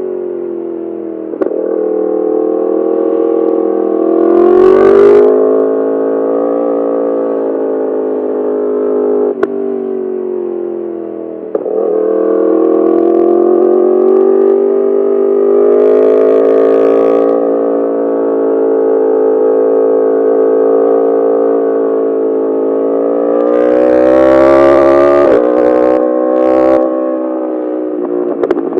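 Yamaha R1's inline-four engine through an Akrapovic full titanium exhaust, pulling hard, its pitch rising and falling as the rider accelerates and eases off through the bends. Short bursts of wind noise come in a few times.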